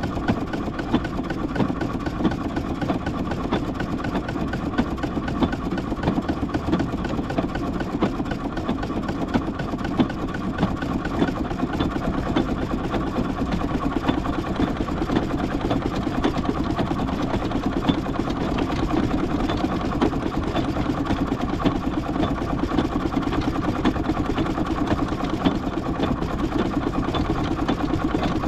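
An engine running steadily throughout, a continuous fast, even rumble with no change in speed.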